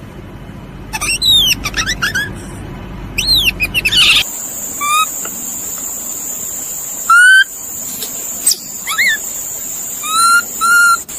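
Bird-like chirping calls, each a quick high note falling in pitch, coming in irregular groups. About four seconds in the background changes abruptly, and a steady high-pitched tone runs under the calls from then on.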